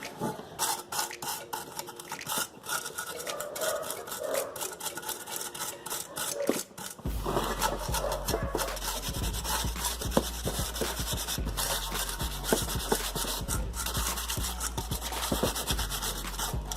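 Sandpaper rubbed by hand over a rusted sheet-metal air-filter housing, many quick rasping strokes, preparing the metal for paint. A low steady hum joins about halfway.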